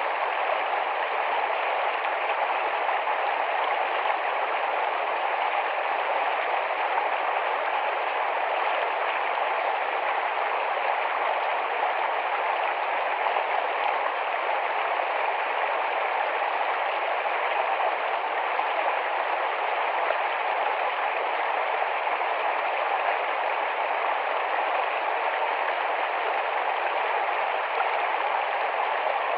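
Small, fast-flowing forest stream rushing and babbling over stones in shallow water, a steady, even rush of water with no breaks.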